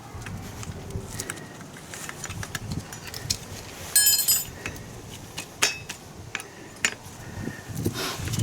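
Metal tools and parts clinking and knocking during hands-on mechanical work. About four seconds in, one metal piece rings briefly after it is struck, and a heavier knock comes at the end.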